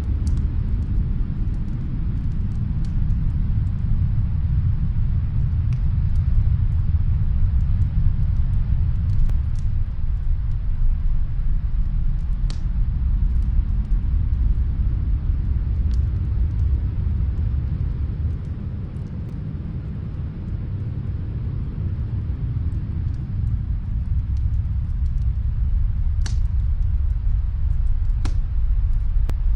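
Snowstorm wind as a steady deep rumble that eases off for a few seconds about two-thirds of the way through, with sparse pops of a crackling wood fire heard from another room.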